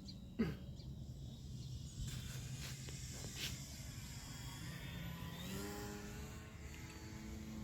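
Faint, steady drone of an FMS PA-18 Cub RC plane's electric motor and propeller in flight, stepping up in pitch about five and a half seconds in.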